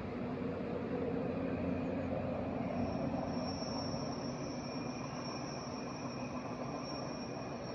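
Rhaetian Railway train running across the stone Landwasser Viaduct, heard across the valley as a steady rumble of wheels on rails. A thin high whine joins about three seconds in.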